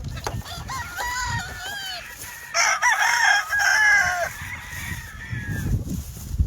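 Gamecock roosters crowing, several overlapping crows with the loudest about two and a half seconds in.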